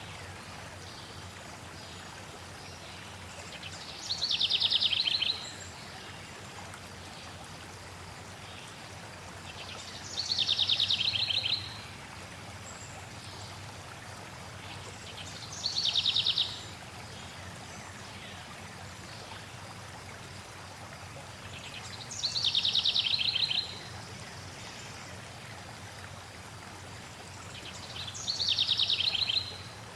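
A songbird repeats a short, high, rapidly trilled song phrase that falls in pitch, five times, about every six seconds. A steady wash of flowing stream water runs underneath.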